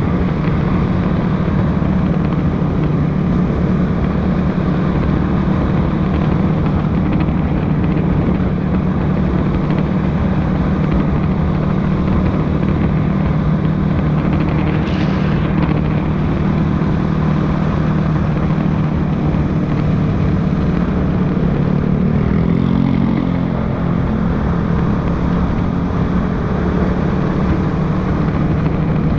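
Motorcycle engine running steadily while riding along a road, its note shifting about three-quarters of the way through as the engine speed changes. A brief higher sound cuts in about halfway through.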